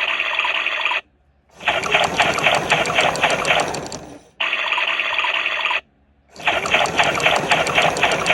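Ttolttori washing machine agitating in its automatic wash cycle: the motor churns in runs with a rapid rhythmic pulse, stopping dead twice for about half a second before starting again, as the agitation alternates direction.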